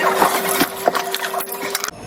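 Motorbike engine running while riding: a steady whine over a rushing noise, with scattered clicks.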